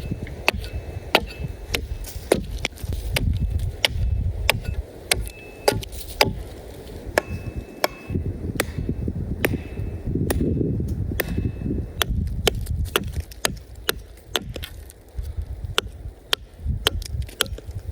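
Wood being chopped with a blade: a run of sharp, irregular chopping strikes, about two a second, over a low rumble.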